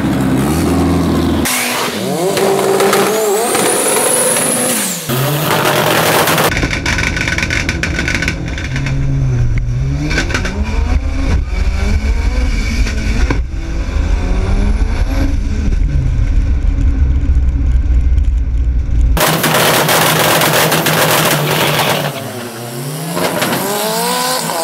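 Turbocharged VW Gol drag car at full throttle, its engine revving up and dropping back at each gear change, with a high rising whistle early on. For a long stretch it is heard from inside the car, with a heavy low rumble.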